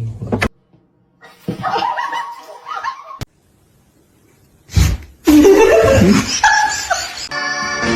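People laughing and snickering in short stretches broken by abrupt cuts, with guitar music starting near the end.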